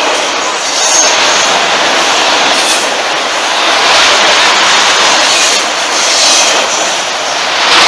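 Freight train of enclosed autorack cars rolling past close by: a loud, steady rattle and rumble of steel wheels on the rails, with brief high wheel squeals coming and going.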